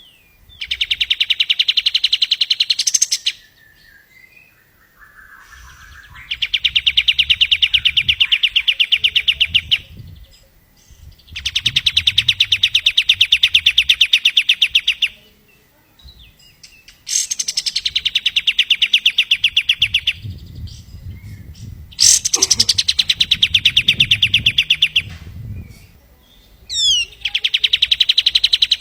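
Kapas tembak songbird singing its rapid, machine-gun-like trill: six long runs of fast, even, high rattling notes, each about three seconds long, with short pauses between them.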